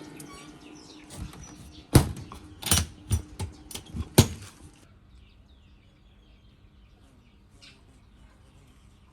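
A quick series of sharp knocks, about seven in two and a half seconds, the loudest a second apart near the start and end of the run. Then faint bird chirps.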